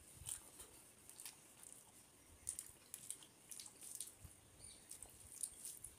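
Faint eating sounds: wet chewing and small mouth clicks, with soft squishes of fingers mixing rice on a metal plate, as short scattered ticks.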